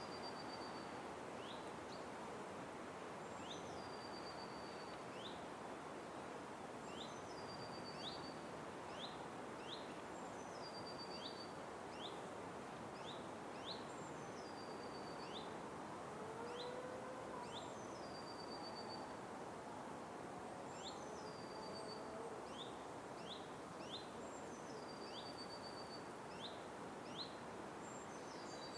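Forest ambience: a steady background hiss with a bird repeating the same high call about every three to four seconds, short rising chirps followed by a brief trill.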